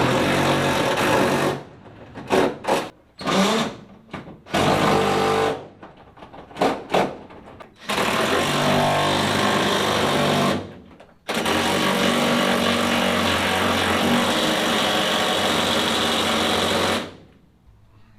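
Handheld power tool run in repeated trigger pulls: a burst of about a second and a half, several short stabs, then longer runs of about two and a half and about six seconds, driving or backing out fasteners.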